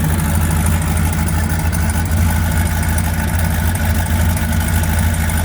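Turbocharged LS V8 engine swapped into a BMW E46, idling steadily.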